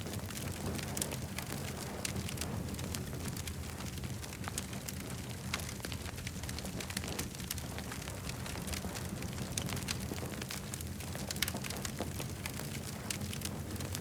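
Wood campfire crackling, with frequent sharp pops and snaps over a steady low rumble of the burning fire.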